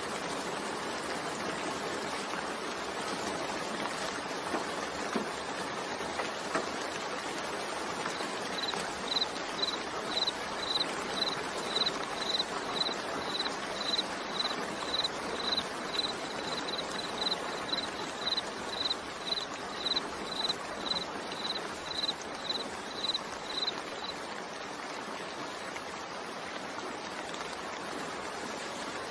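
Steady rain, an even hiss of falling water. From about nine seconds in, a short high note repeats about twice a second for some fifteen seconds, then stops.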